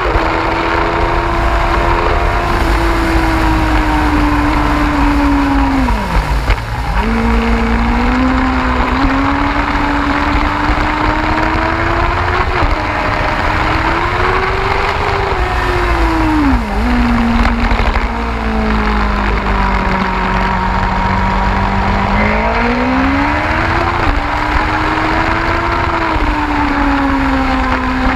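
Yamaha YZF-R1 inline-four sport-bike engine heard on board at road speed, its note rising and falling with throttle and gears. The pitch drops steeply about six seconds in and jumps back up, then sags and climbs again through the bends, under steady wind rumble on the microphone.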